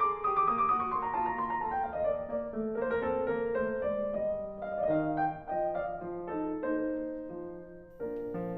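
Background piano music: a melodic line that steps downward at the start, a quieter lull near the end, then a new phrase.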